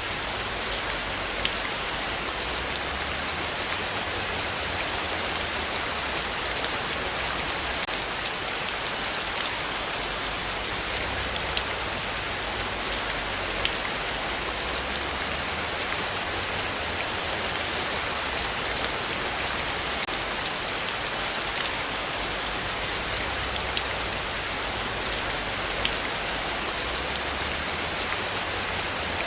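Heavy rain falling steadily, a dense even hiss with many sharp individual drop ticks scattered through it.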